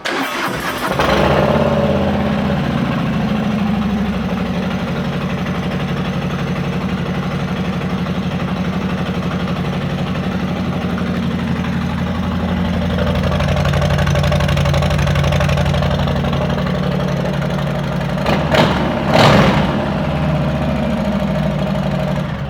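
2019 Harley-Davidson Street Bob's Milwaukee-Eight V-twin starting and idling loudly through an exhaust with its baffles removed. One quick throttle blip comes about 19 seconds in, and the engine cuts off at the end.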